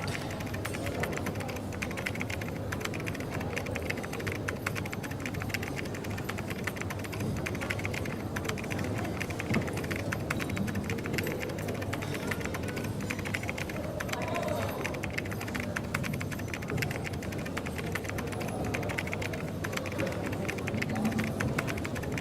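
Typing on a computer keyboard, a steady run of quick key clicks, over the constant background hum of a coffee shop with indistinct voices.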